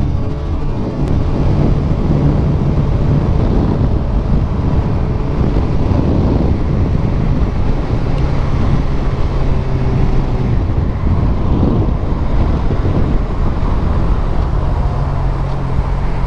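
Suzuki GSX-R 750's inline-four engine running while riding, with wind rushing over the microphone. The engine note drops somewhat midway and comes back up near the end.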